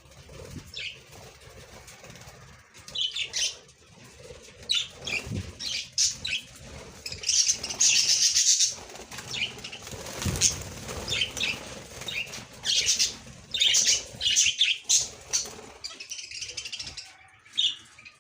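Budgerigars chirping and chattering in many short, high-pitched bursts, busiest around the middle.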